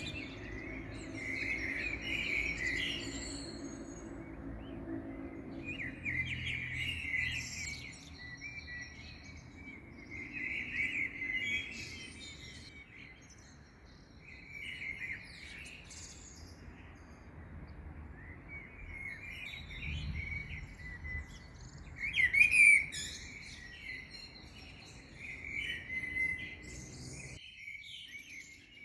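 Songbirds chirping and singing in short repeated phrases at dawn, with one louder burst of song about two-thirds of the way through. Under the birds runs a low steady background noise that cuts off near the end.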